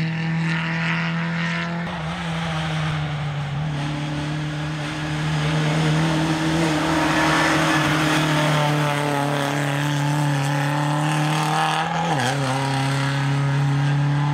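Lada 2107 rally car's four-cylinder engine running hard at high revs, its note held fairly steady under load with tyre and road noise over it; the pitch dips briefly about twelve seconds in before picking up again.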